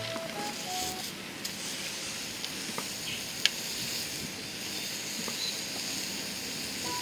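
Meat sizzling on a grill over a fire pit: a steady hiss with scattered small crackles and one sharp pop about three and a half seconds in.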